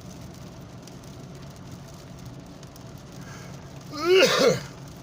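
Steady low hum of a car driving in rain, heard inside the cabin. About four seconds in, a short vocal sound from the driver breaks in.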